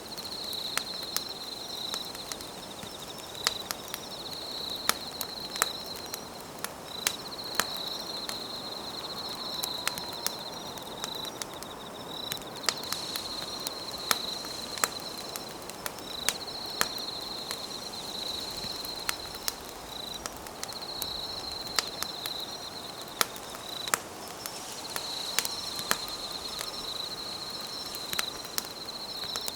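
Campfire crackling with irregular sharp pops, over an insect's high trill that runs in stretches of a few seconds with short breaks between.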